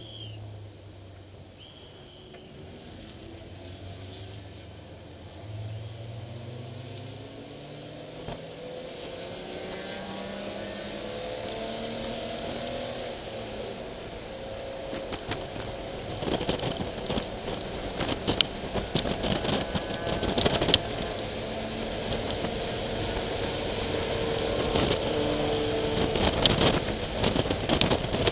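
BMW E30 325iS's M20 straight-six engine under racing load, its pitch climbing and falling as it works through the gears and getting louder. From about halfway through, many sharp knocks and rattles sound over it.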